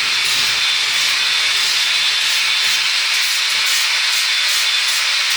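Angle grinder grinding the steel face and corners of an anvil: a steady, loud hiss of abrasive on metal with a thin high whine from the grinder.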